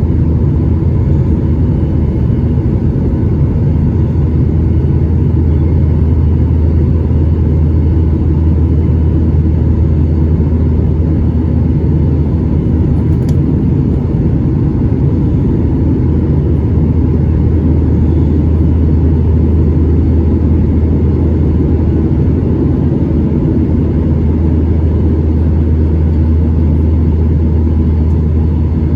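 Steady cabin rumble of a Boeing 737-800 in flight: engine drone and airflow heard from a seat inside the cabin, holding level throughout.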